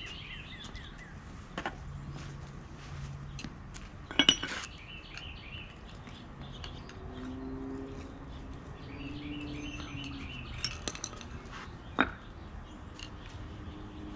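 Scattered sharp metallic clinks of steel flathead screwdrivers prying and scraping against concrete pavers as they are worked loose. The loudest cluster comes about four seconds in, with a few more later. Birds chirp in quick runs near the start and again near the end.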